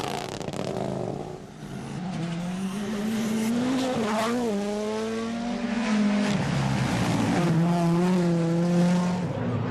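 Rally car engine revving hard through the gears, its note climbing and dropping around four seconds in and holding steady near the end, with some tyre squeal.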